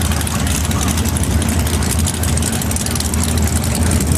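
Holden Torana drag car's V8 engine idling steadily, a loud, deep, even beat with no revving.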